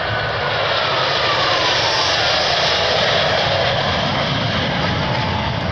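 F/A-18 Hornet jet flying past, its noise swelling to a peak about three seconds in while the engine tone slides steadily down in pitch as it goes by.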